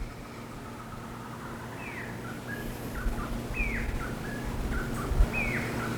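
A bird calling repeatedly: three falling whistled notes about a second and a half apart, beginning about two seconds in, with short lower notes between them. A faint steady low hum runs underneath.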